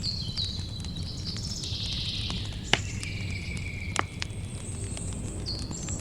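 Campfire crackling over a steady low rumble, with two sharper pops, about three seconds in and again about a second later. Birds call in short whistled notes and insects chirp over it.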